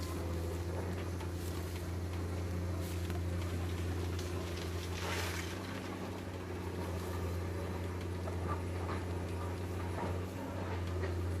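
Diesel engine of heavy earthmoving machinery running at a steady speed, with a short hiss about five seconds in.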